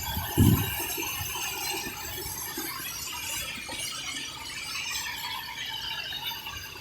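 Outdoor ambience in the rain: a steady hiss of rainfall with many short, high chirps or squeals over it, and a brief low thump about half a second in.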